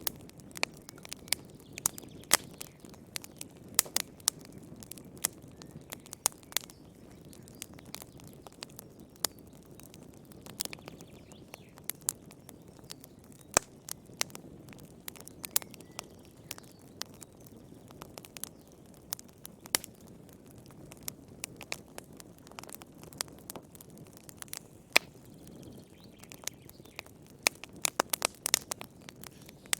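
Wood fire crackling in a fireplace: irregular sharp pops and snaps, several a second, over a steady low rumble of the burning flames.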